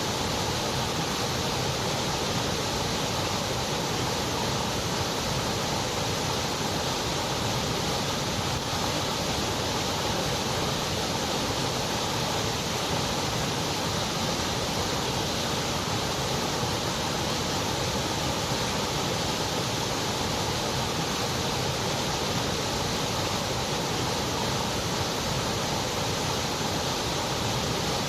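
Continuous white noise: an even, unchanging hiss with no rhythm or events.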